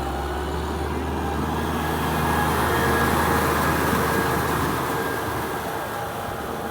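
Kubota tractor's diesel engine running steadily. It grows louder about two seconds in and eases off near the end.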